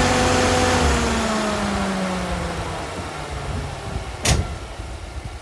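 VW T4 Transporter's V6 engine running just after start-up on fresh oil, its revs easing down toward idle and the sound growing fainter. A single sharp knock about four seconds in.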